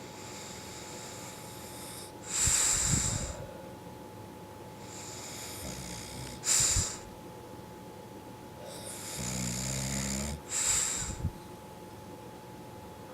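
Dog snoring in its sleep: a slow breath about every four seconds, each ending in a short, loud, hissing exhale. A low rattling snore sounds on the breath in just before the last exhale.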